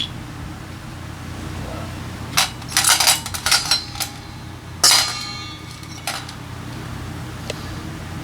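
Small metal parts and hand tools clinking and clanging together: a quick flurry of clinks about two seconds in, then a louder ringing clang near the middle, over a steady low hum.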